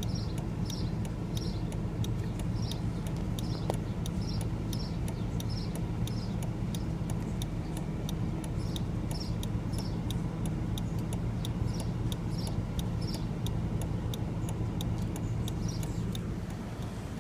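A car's engine idling steadily while the car waits stopped, heard from inside the cabin as a low hum. A fast, even ticking runs over it.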